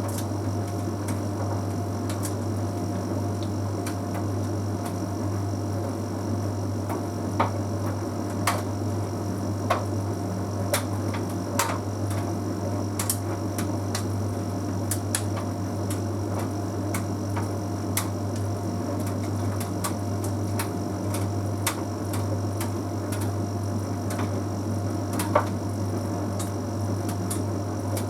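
Bosch Series 6 heat pump tumble dryer running steadily with a low hum, and irregular sharp clicks every second or so.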